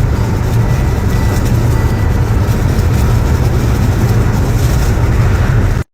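A loud, steady low rumble with a hiss over it, cut off suddenly near the end.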